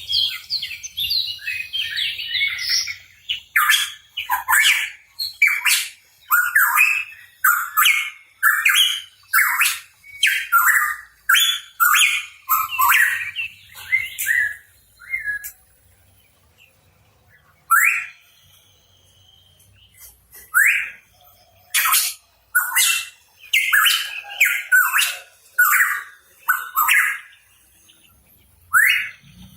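Pitohui singing in quick strings of short, sharp, down-sweeping notes; past the middle it falls quiet for a couple of seconds, then calls more sparsely before another quick run near the end.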